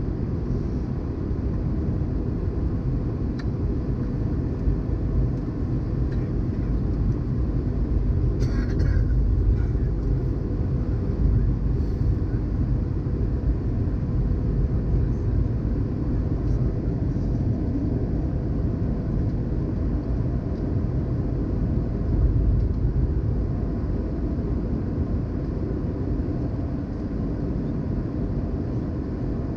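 Airliner cabin noise on an Airbus A320's descent: the steady deep rumble of airflow and the CFM56 engines, with a faint steady hum above it.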